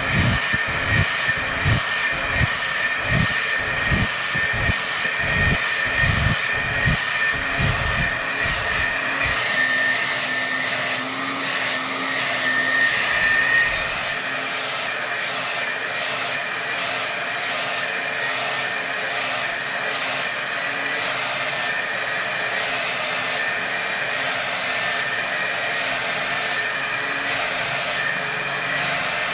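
Hair dryer running at full power: a steady rush of air with a high whine. Low pulsing about twice a second fades out after the first eight seconds or so, and the sound then runs smooth.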